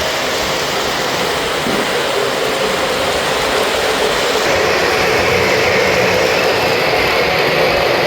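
Model train locomotives running on the layout track: a steady rumble of wheels and motors, growing a little louder and brighter about halfway through.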